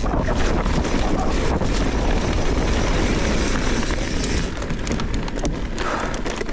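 Wind buffeting the microphone during a fast trail ride, a loud steady rumble with scattered light rattling clicks, easing off somewhat near the end.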